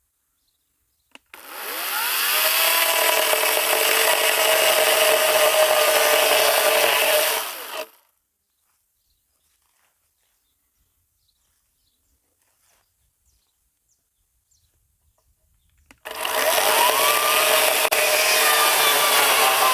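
Cordless battery-powered saw cutting driftwood. It spins up with a rising whine, cuts steadily for about six seconds and stops, then starts up again near the end.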